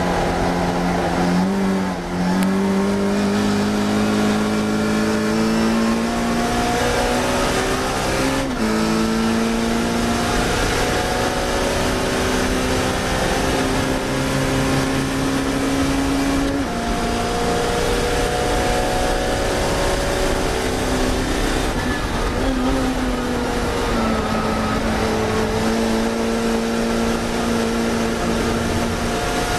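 Classic Mini racing car's four-cylinder BMC A-series engine pulling hard at high revs. The pitch climbs steadily and drops sharply at each upshift, about every six to eight seconds, five times in all.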